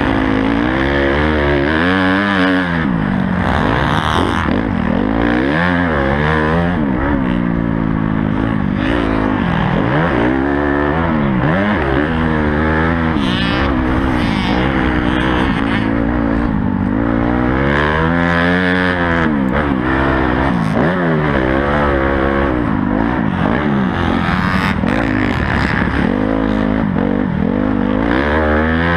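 Honda CRF250 dirt bike's four-stroke single-cylinder engine being ridden hard, its revs rising and falling over and over with throttle and gear changes.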